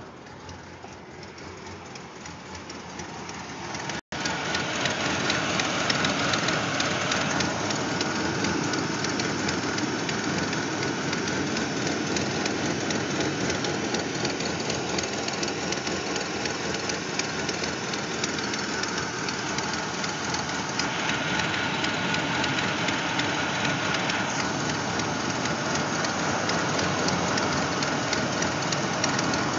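Chevrolet S10 pickup engine idling rough and sputtering, a sign of a misfire-type running fault. It gets louder over the first few seconds, cuts out for an instant about four seconds in, then runs loud and steady for the rest.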